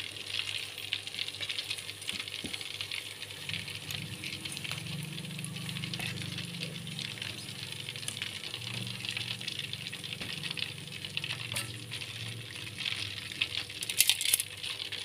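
Hot oil sizzling as food fries in a pan, with light clinks of a metal utensil and a burst of sharper clinks near the end.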